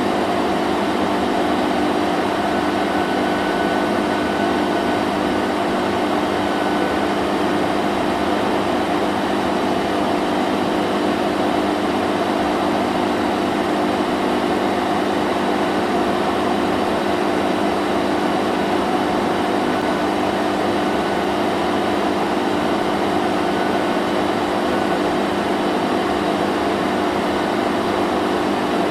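Vacuum cleaner running steadily: a constant motor hum over a broad rushing of air, with no change in pitch or level.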